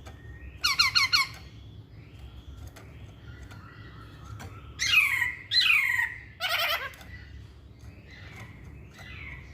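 Black-throated laughingthrush (poksay Hongkong) singing: a quick burst of four loud notes about half a second in, then two loud downward-slurred whistles around five seconds followed by another rapid run of notes, with softer calls between.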